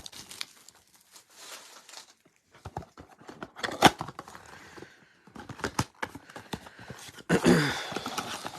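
Trading card packs and their wrappers being handled: scattered crinkling, rustling and soft clicks, with a denser stretch of rustling near the end.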